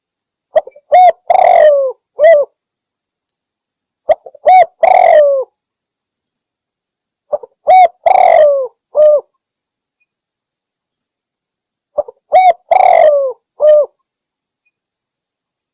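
Spotted dove (derkuku Jawa) cooing: four phrases a few seconds apart, each of two or three short notes, one longer drawn-out coo and a short final note.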